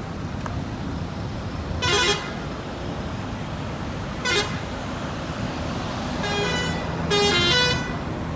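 Car horns honking over steady traffic noise: a short toot about two seconds in, a brief one just after four seconds, then longer honks near the end.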